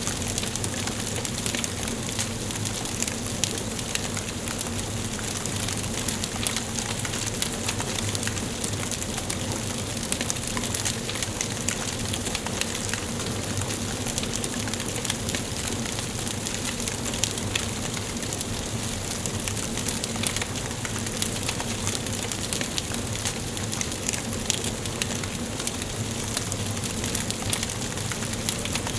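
Wood fire burning in a fireplace: steady hiss with frequent small crackles and pops.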